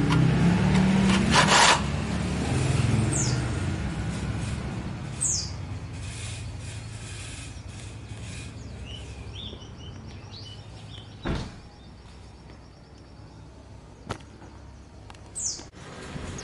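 Small songbirds chirping: a few short downward chirps and a rapid trill in the middle. A low rumble fades over the first few seconds, and there are a couple of sharp knocks, one near the start and one past the middle.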